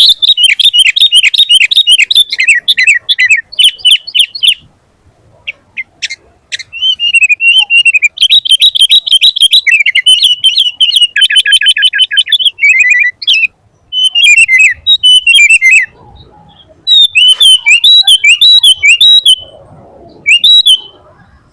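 Sooty-headed bulbul singing loudly in fast, chirpy, warbling phrases, delivered in about five bursts separated by short pauses.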